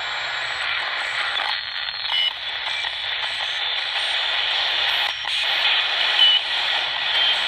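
Ghost box radio hissing with static, the noise breaking up and shifting abruptly a few times, with short faint beeps. The session treats this static as the strange sounds meant to carry spirit voices.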